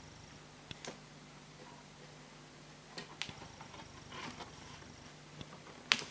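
Scattered light clicks and taps of hands working on laptop parts: a few single clicks, a brief rustle of handling about four seconds in, and one sharper click near the end, over a faint steady low hum.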